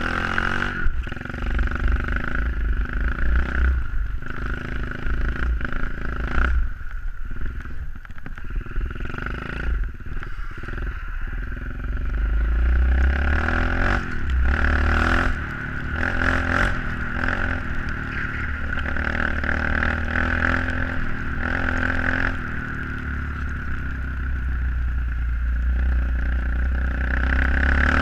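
SSR 125cc pit bike's single-cylinder engine running as the bike is ridden, its level rising and falling with the throttle, with a few short knocks and clatter from the bike.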